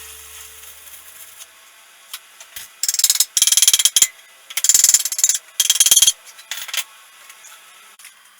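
Four short bursts of rasping, clicking tool work, the first and longest lasting about a second.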